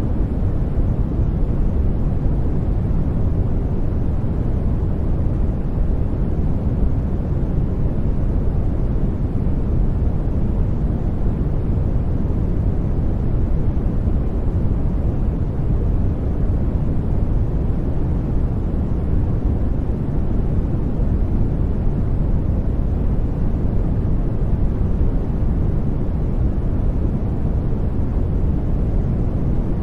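Steady sleep-aid noise: an even, unchanging rush weighted heavily to the low end, a deep soft rumble with little hiss.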